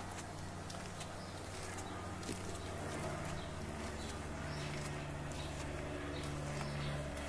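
Footsteps crunching along a bush track, over a steady low hum of road traffic that swells in the second half as a vehicle passes.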